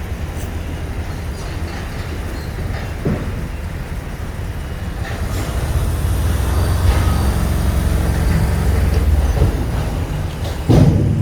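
Train running with a steady low rumble that grows louder past the middle. A sudden loud low thump comes near the end.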